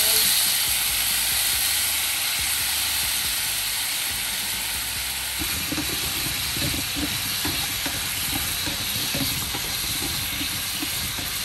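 Pumpkin chunks sizzling in oil in a nonstick frying pan, a steady hiss. From about halfway, chopsticks turn the pieces, adding soft irregular knocks and scrapes.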